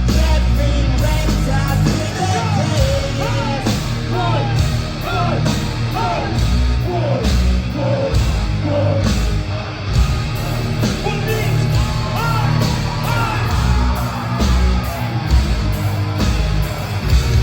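A heavy metal band playing live and loud, with distorted guitars, bass and drums. Over it come yelled vocals and high notes that bend up and down in pitch through the middle.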